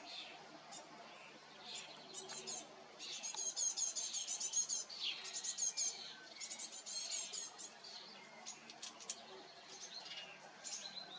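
Small songbirds chirping: a rapid run of high, quickly repeated notes about three seconds in lasting a couple of seconds, another run around seven seconds, and scattered single chirps in between.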